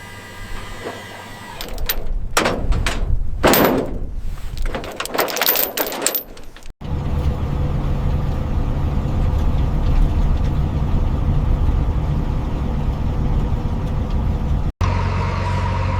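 A few seconds of hissing, whooshing noise, then, after a sudden cut, an engine running steadily with a low hum, cut off abruptly near the end.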